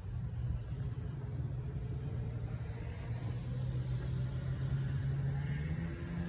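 Ford 5.0-litre V8 of a 1987 Mustang GT running at a steady, rough idle, heard close up in the open engine bay.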